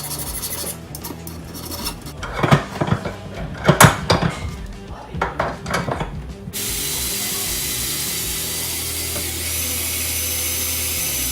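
Several sharp knocks from hand work on a small metal hex wrench, then, after an abrupt change, a power tool running steadily, over background music.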